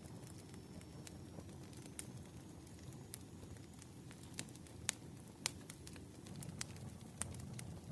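Wood fire crackling: a steady low rumble with irregular sharp pops and snaps, two of them louder about five seconds in.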